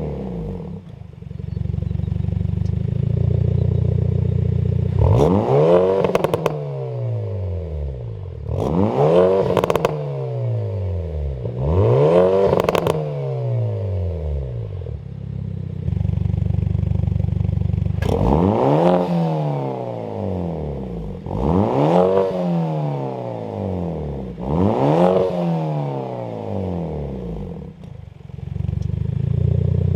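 Hyundai i30 N's turbocharged four-cylinder engine, through an aftermarket exhaust, being blipped from idle about seven times, each rev rising and dropping back within a second or two. A few revs end with a sharp crackle as the throttle closes, and the engine idles steadily in between.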